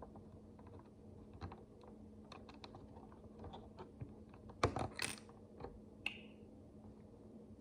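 Small plastic micro bricks clicking and tapping as they are handled and pressed together, in scattered light clicks with a louder flurry about five seconds in. A brief high chirp comes just after.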